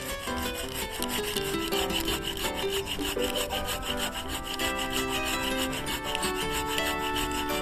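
Hand saw cutting through a wooden log, a steady rasping of rapid strokes, with background music of held notes underneath.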